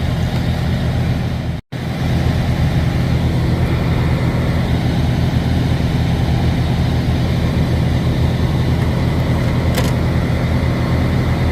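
Semi truck's diesel engine idling with a steady low hum, cutting out for an instant about two seconds in.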